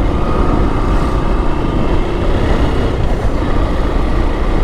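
Motorcycle ride on a wet road: steady wind rush on the camera's microphone mixed with the bike's engine and tyre noise.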